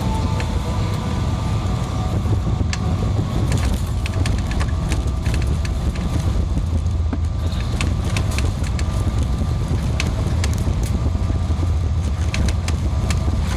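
Boeing 777-300ER cabin noise: a steady low rumble with frequent short rattles and clicks from the cabin fittings, typical of the airliner rolling on the ground after landing.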